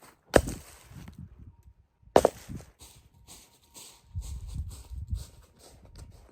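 Wood being chopped with a hand tool: two sharp strikes about two seconds apart, with duller knocks and rustling of wood being handled in between.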